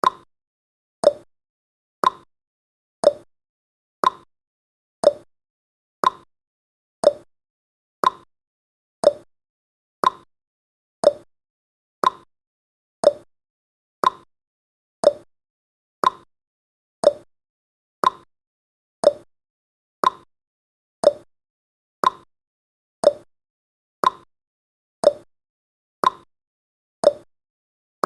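Countdown timer's ticking sound effect: one short, sharp tick every second, steady and even.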